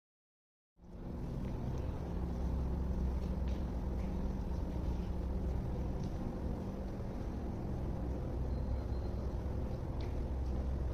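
A steady low hum and rumble with a few faint clicks, after a short dead-silent gap at the start.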